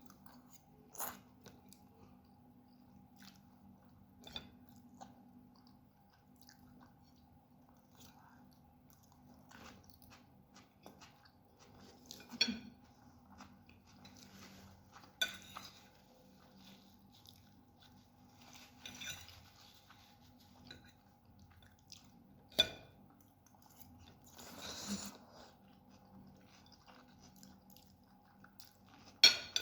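Close-up chewing of lagmon spinach noodles, a person eating with quiet mouth sounds and scattered clicks, a few of them sharper and louder, over a faint steady hum.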